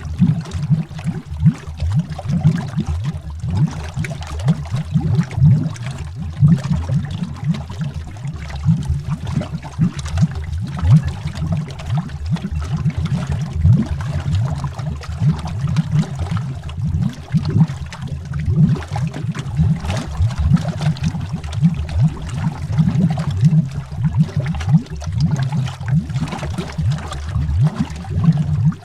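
Underwater bubbling: a continuous stream of bubbles heard below the surface, a dense, deep, irregular bubbling with no pauses.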